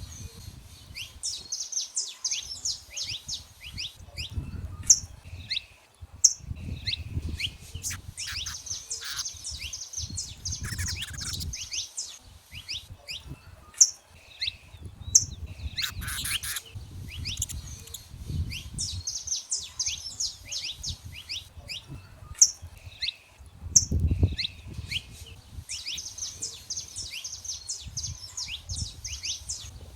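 Saffron finches chirping and singing, several birds calling in rapid, overlapping strings of short notes and trills, with a few sharper high notes standing out. A low rumble comes and goes underneath.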